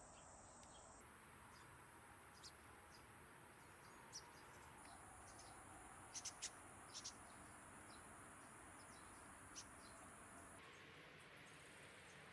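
Faint backyard ambience: a steady high insect trill with a few short, sharp bird chirps, the strongest clustered a little past the middle.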